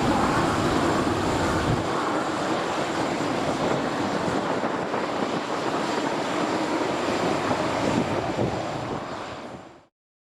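Jet engines of a landing wide-body airliner, a loud steady roar that fades out and cuts off near the end.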